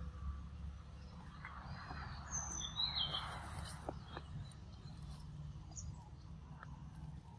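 Wild birds chirping, a few quick high calls about two to three seconds in, over a steady low background rumble.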